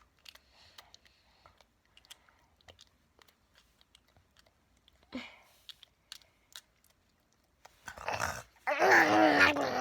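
A child making pretend eating noises: scattered soft mouth smacks and clicks, then a loud voiced sound in the last two seconds.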